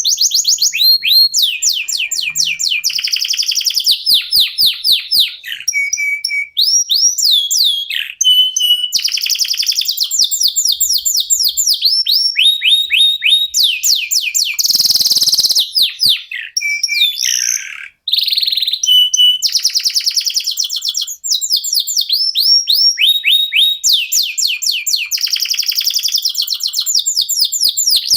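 Local domestic canaries singing continuously in fast repeated trills and rolls, high-pitched, broken by many short pauses, including a brief break about two-thirds of the way through.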